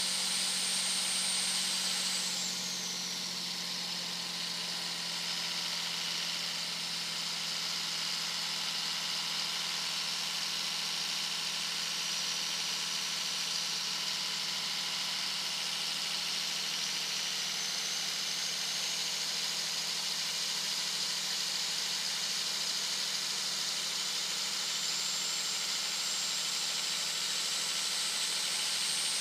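Turbocharger whistle from a 2001 Dodge Ram 2500's 5.9-litre Cummins inline-six turbo diesel at highway speed: a high, loud whine drops in pitch about two seconds in, holds, then climbs slowly back up through the second half, over the steady drone of the engine.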